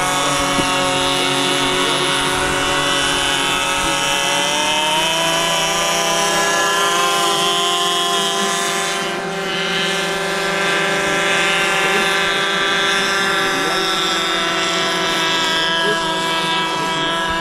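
Model airboat's in-line engine running with its air propeller, a steady engine drone that rises in pitch a few seconds in as the throttle opens and then holds, briefly easing about nine seconds in.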